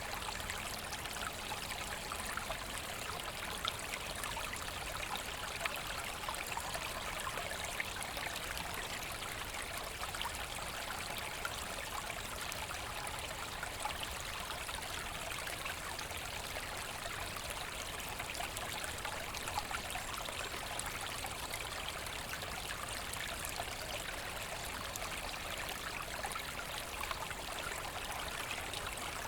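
Forest brook flowing over stones, a steady babbling rush with small splashes.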